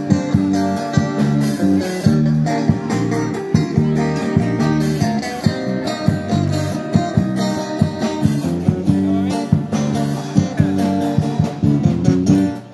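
Live busker band playing an instrumental passage led by guitar with bass, strummed in a steady rhythm; the music stops near the end.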